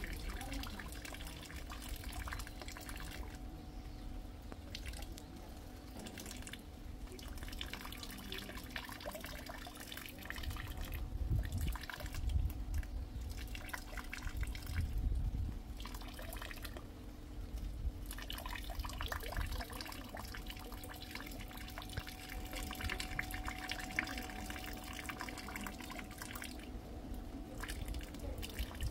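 Rain dripping: many scattered drops ticking, with rainwater trickling and a low rumble that swells twice in the middle.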